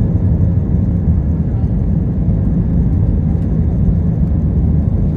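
Steady low rumble of an Airbus A320's engines and airframe, the even noise heard aboard the jet.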